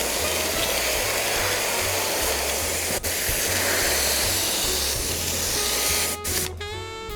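Spray adhesive hissing steadily as it is sprayed onto seat cushion foam, stopping about six seconds in. Background music plays underneath.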